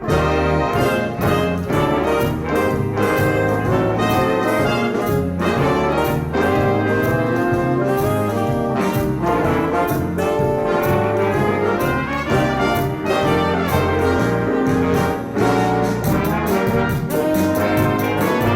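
Jazz band with a brass section playing, trumpets and trombones over a steady drum beat; the full band comes in loudly right at the start.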